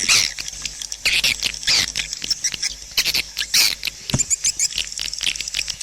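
Swiftlet call recording: a dense, continuous twittering of short high chirps and clicks, the kind of lure sound played in swiftlet houses.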